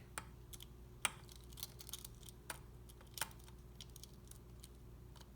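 Light metallic clicks and taps as a piston is worked through a ring compressor and slid into the cylinder of a two-stroke outboard jet engine. The sharpest clicks come about a second in and again about three seconds in.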